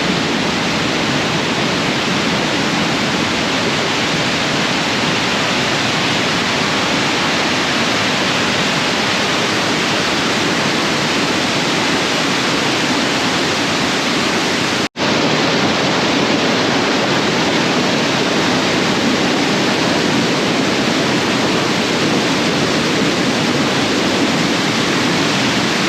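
Waterfall flowing strongly: a loud, steady rush of falling water, briefly cut to silence for a moment about fifteen seconds in.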